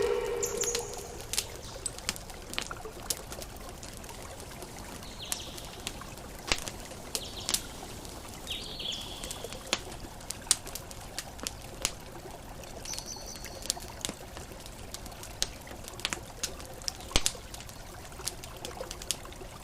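Campfire crackling, with frequent sharp pops, over a steady wash of water, and a few short high bird chirps.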